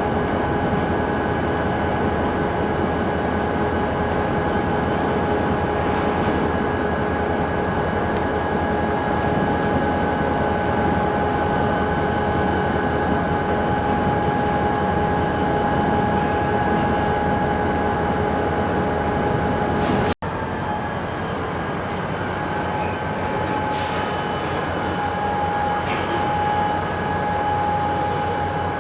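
Railroad train in motion in a rail yard: a steady running rumble with a constant high-pitched whine over it. The sound cuts out for an instant about twenty seconds in, then resumes.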